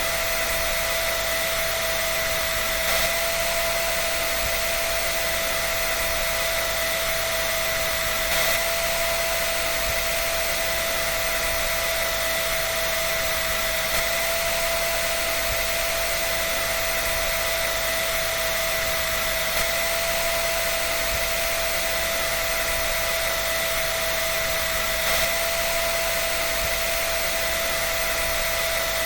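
Hair dryer blowing steadily: a continuous rush of air with a constant high whine from its motor and fan.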